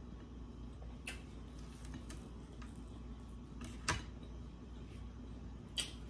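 Mouth sounds of someone eating barbecue pork ribs: chewing with three short, sharp smacks, the loudest about four seconds in, over a low steady hum.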